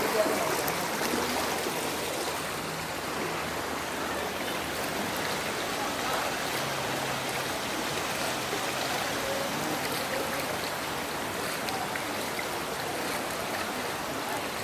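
Floodwater of the Kelani River flowing, a steady noise of moving water.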